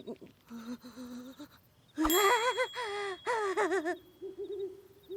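Cartoon character's wordless vocalizing: a warbling, wavering voice in several short phrases, loudest about two seconds in, with a thin high ringing tone over it.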